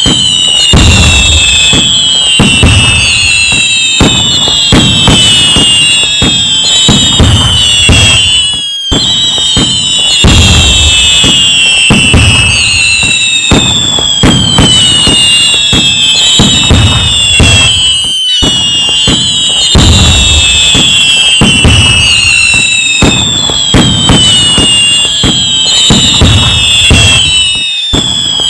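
Loud, continuous fireworks barrage: many overlapping bangs and crackling, with whistles falling in pitch. The same stretch repeats about every nine and a half seconds, each time after a brief dropout.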